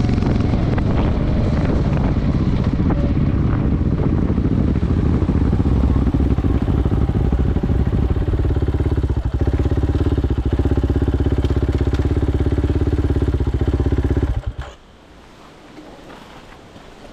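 Motorcycle engine running, with wind on the microphone early on, then settling into a steady idle from about halfway. It cuts out suddenly near the end, as when the engine is switched off.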